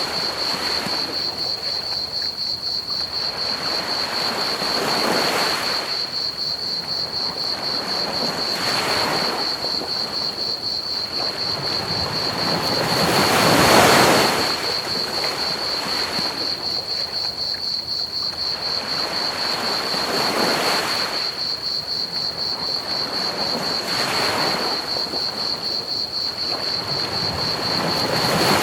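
Ocean waves washing onto a beach in slow swells every four to six seconds, the biggest about halfway through. Under them a steady, high trill of crickets chirping and a constant pink-noise hiss.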